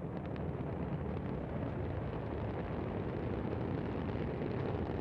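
Steady low rumble of the Antares rocket's two AJ26 first-stage engines during its climb after liftoff.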